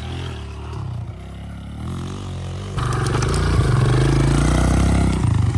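Pit bike engine revving up and down as it rides the small dirt track, then getting much louder about three seconds in as the throttle is opened hard.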